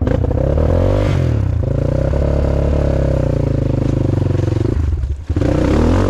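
Off-road enduro motorcycle engine revving under load, its pitch rising and falling with the throttle. Near the end it cuts off abruptly for a moment, then picks up again.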